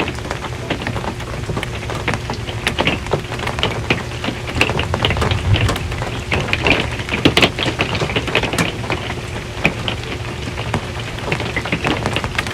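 Rain drumming on an RV's metal roof: a steady wash with many irregular sharp drop strikes, heavier for a few seconds in the middle.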